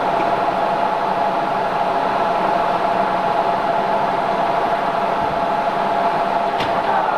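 Steady mechanical whine of a running machine, with a single click near the end.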